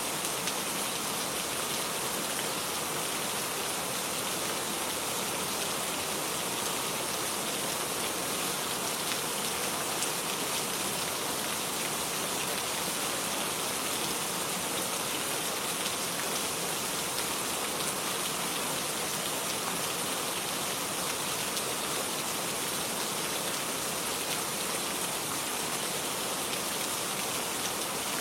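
Steady rainfall pattering on surfaces, an even hiss of many drops.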